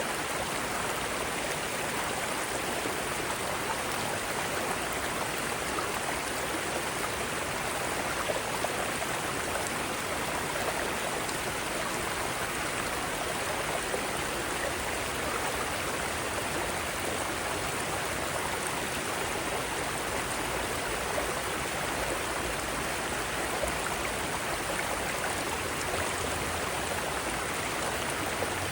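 Mountain stream running over rocks, a steady, even rush of water with no other sounds.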